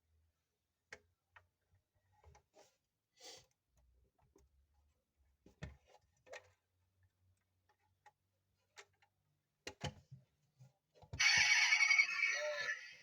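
Light clicks and taps of a small plastic-and-metal toy van being handled, then, about eleven seconds in, a loud electronic sound effect from the toy's built-in battery sound module starts up through its tiny speaker.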